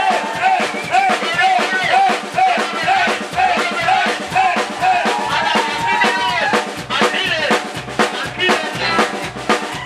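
Live rock and roll band playing with a drum kit; a lead instrument repeats a short, quickly bent note about two to three times a second, then holds a long note.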